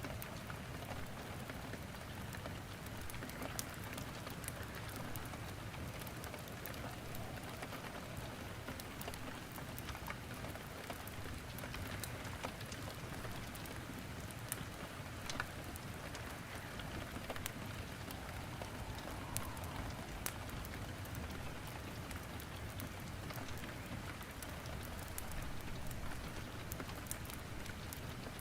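Steady rain with scattered sharp crackles and pops from wood burning in a fireplace.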